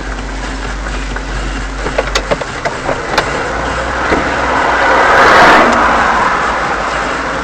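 Engine and tyre noise of a moving car, with a few sharp clicks about two to three seconds in. The noise swells to its loudest around five to six seconds in, like another vehicle passing close, then eases off.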